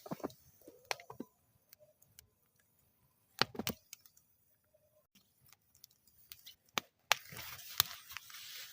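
Wood fire crackling in a metal fire bowl: scattered sharp pops with quiet gaps, a cluster of loud pops about three and a half seconds in, and denser, busier crackling from about seven seconds on.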